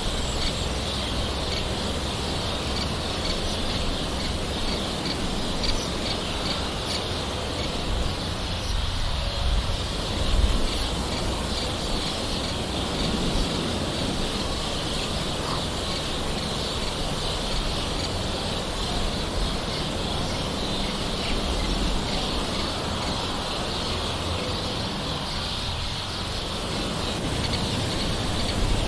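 Gentle rain falling steadily, with birds calling in the background.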